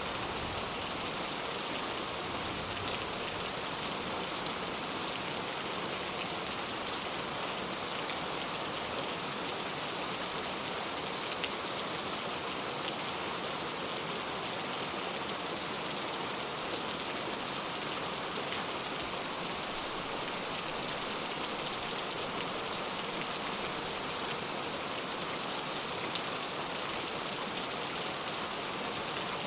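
Steady rain falling: an even hiss that does not change, with faint single drop ticks here and there.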